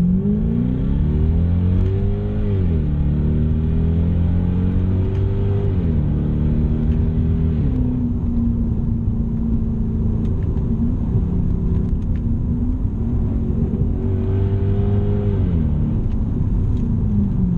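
Lexus LS 430's 4.3-litre V8 pulling away under acceleration, heard from inside the cabin. The engine note climbs and drops back three times in the first eight seconds as the automatic gearbox shifts up, then settles into a steady cruise with road noise. Near the end the note rises and falls once more.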